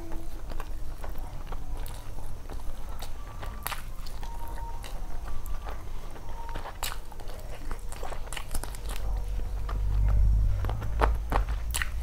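Close-miked eating sounds of a person chewing rice and curry eaten by hand: wet chewing with many scattered sharp clicks and smacks. A low rumble swells briefly about ten seconds in.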